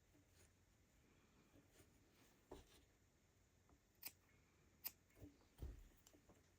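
Faint sounds of rug hooking by hand: a few scattered soft clicks as wool strips are pulled through the backing, two sharp snips about a second apart past the middle, and a low thump near the end.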